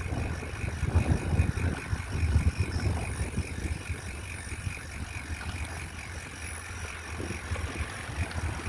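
Bicycle freewheel ticking steadily while coasting, over low wind rumble on the microphone that is heavier in the first few seconds.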